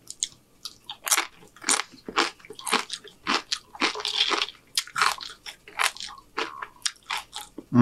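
Tortilla chips being bitten and chewed: an irregular run of sharp, crisp crunches beginning about a second in.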